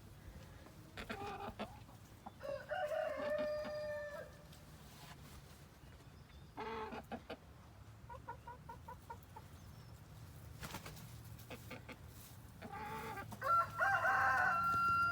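Chickens clucking and calling: several separate calls, a quick run of clucks about halfway through, and louder, drawn-out calls near the end.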